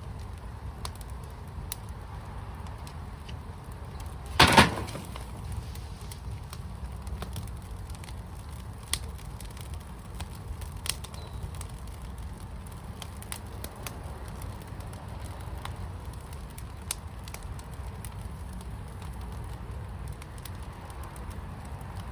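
Wood fire in a fire pit crackling, with scattered sharp pops and one loud double pop about four seconds in, over a steady low rumble.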